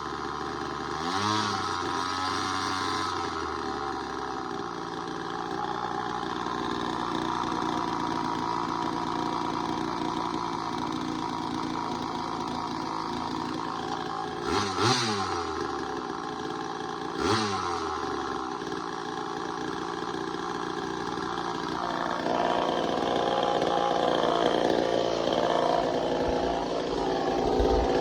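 Early-1970s Craftsman 2.3 two-stroke chainsaw, a Poulan-built saw, running at a steady idle. The throttle is blipped three times: about a second in, and twice close together past the middle, each rev rising and falling back. About three-quarters of the way through, the sound grows louder and rougher.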